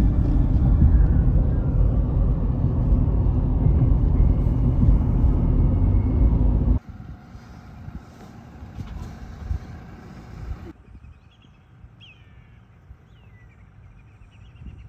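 A vehicle driving, with steady road and engine rumble that cuts off abruptly about seven seconds in. It is followed by quieter outdoor ambience, where several short, falling bird calls come in near the end.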